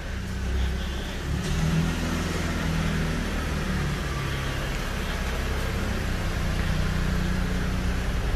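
Low, steady rumble of a car engine running inside an enclosed concrete multi-storey car park.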